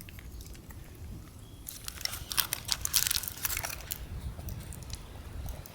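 Crinkling and crackling handling noise, a dense run of sharp little crackles starting a little under two seconds in and lasting about two seconds, over a low steady rumble.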